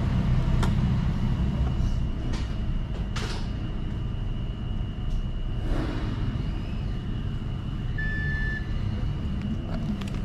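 A vehicle engine rumbling steadily at idle, with a few brief whooshes and one short electronic beep about eight seconds in.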